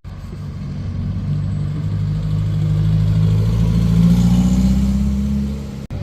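A car engine running, rising slowly in pitch and loudness to about four seconds in, then easing off. The sound cuts out abruptly just before the end.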